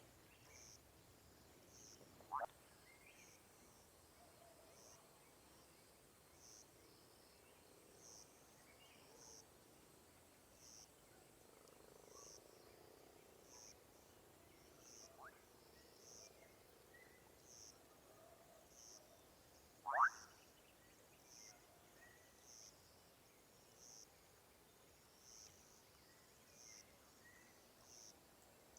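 Frogs calling in a forest at night, faintly. A high call repeats about once a second, and three short rising calls stand out, the loudest about twenty seconds in.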